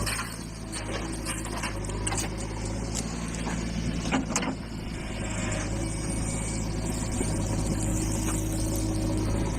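Heavy diesel engine running steadily at a low, even pitch, with a few short knocks and clatter, the loudest about four seconds in.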